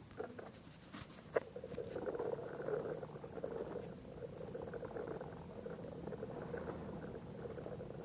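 Small electric motor of a miniature toy truck running with a steady whir that wavers in level. Two sharp clicks come about a second in, just before it starts.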